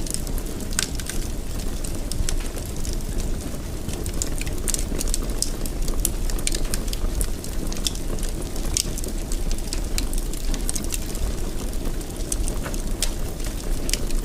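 Wood fire in a fireplace crackling, with frequent irregular sharp pops over a steady low rumble of the burning logs.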